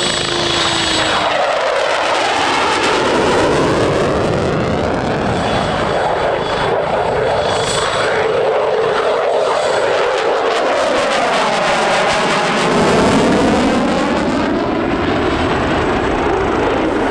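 An aircraft flying past, its engine noise loud and steady throughout, with slow sweeping shifts in tone as it moves past.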